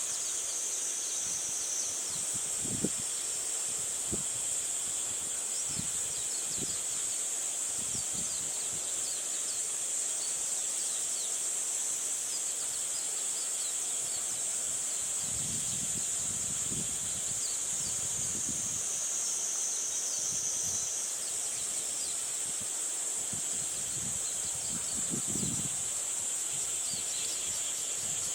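A steady high-pitched chorus of insects, with gusts of wind buffeting the microphone as low rumbles several times.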